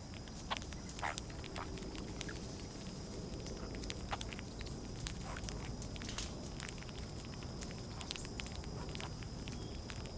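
Outdoor backyard ambience: a steady high-pitched insect chorus runs throughout, with scattered short sharp chips and clicks from small birds and animals feeding at the seed.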